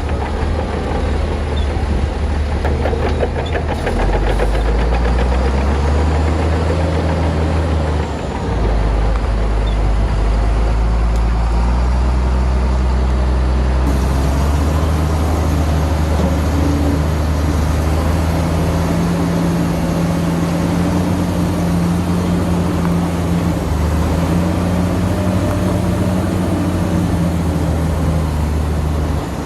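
Heavy diesel earthmoving machinery running loudly, its engine note rising and falling with load, with a brief dip about eight seconds in.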